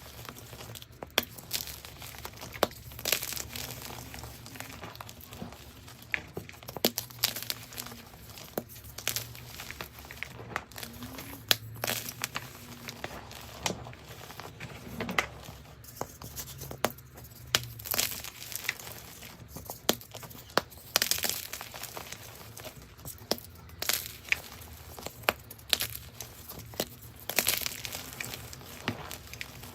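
Gym chalk being crushed: irregular crisp crunches and powdery crumbling.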